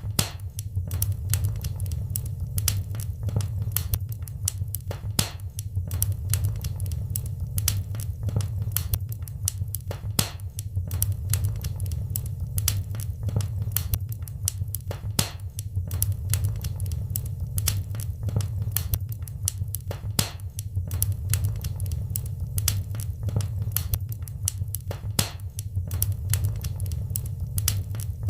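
Wood fire in a fireplace crackling and popping: many irregular sharp snaps over a steady low rumble of flames.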